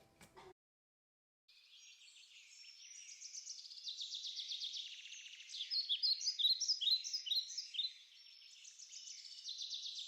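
Songbirds chirping and singing, with rapid trills and short overlapping chirps. They start suddenly about a second and a half in, after a moment of dead silence.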